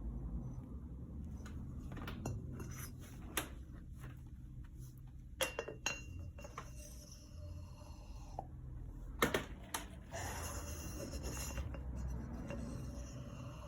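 Metal engine parts and hand tools clinking and knocking as they are handled at a workbench. One tap about five and a half seconds in rings briefly, and from about ten seconds in there is a couple of seconds of scraping, all over a steady low hum.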